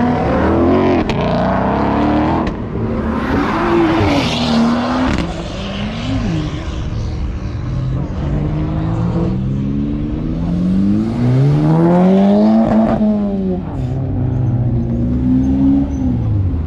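Car engines revving and accelerating, their pitch rising and falling again and again. One climbs steadily in pitch about eleven seconds in and drops away about two seconds later.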